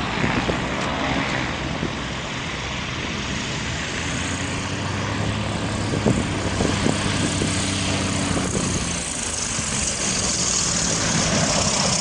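Airplane engine running steadily under a loud rushing noise, with a short knock about six seconds in.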